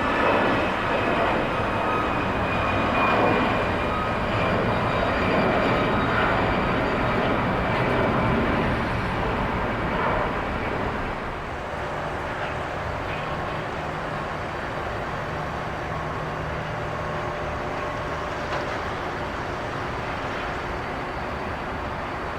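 Jet airliner engines running, louder for the first ten seconds and easing off about eleven seconds in, with a high whine that slowly falls in pitch near the start.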